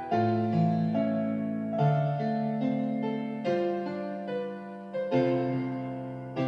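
Slow piano chords, each struck and left to ring and fade, with a new chord every second or so: the piano introduction of the accompaniment, with no pan flute yet.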